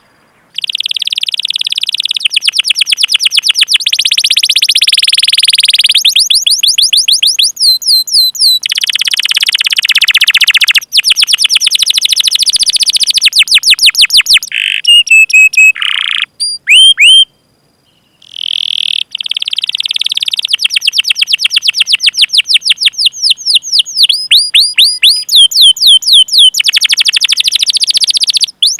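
Domestic canary singing loud, long rolling trills of rapid repeated notes and runs of quick rising chirps, broken by a few short pauses, the longest a little past the middle.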